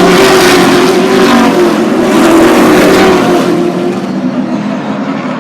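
Super Truck race trucks' engines running hard as they race past on the short oval, a close pack of engines rising and falling in pitch. It swells loudest about half a second in and again around halfway, then eases off.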